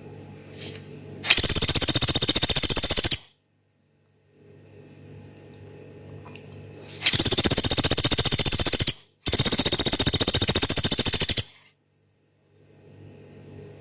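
Small woodpecker (pelatuk beras) giving long, harsh rattling trills of very fast repeated high notes, three times, each lasting about two seconds, with the second and third nearly back to back.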